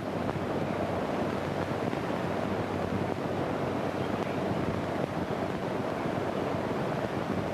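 Steady hiss and crackle of an old 1929 film soundtrack carrying no recorded sound, with a faint low hum underneath.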